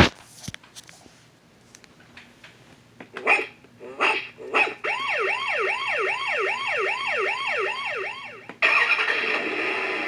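Electronic sound effects from a Paw Patrol toy truck's speaker: a few short recorded dog barks, then a siren wailing in quick falling sweeps, about three a second. Near the end a louder, noisier sound cuts in.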